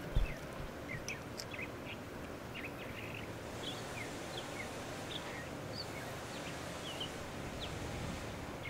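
Outdoor ambience of small birds chirping: many short, scattered high chirps over a low rumble, with a brief low thump at the very start.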